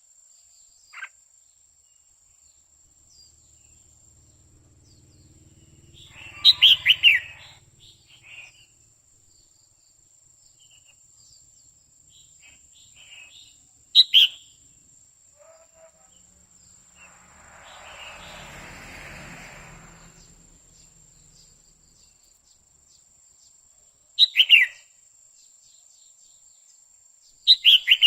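Female red-whiskered bulbul giving short bursts of quick chirping calls, four times, several seconds apart. A soft rushing noise rises and fades about two-thirds of the way through.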